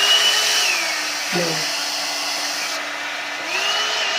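A one-step hot-air brush hair dryer running, with a steady rush of air over a motor whine. The whine drops to a lower pitch about a second in as the speed switch is turned to low, and climbs again near the end.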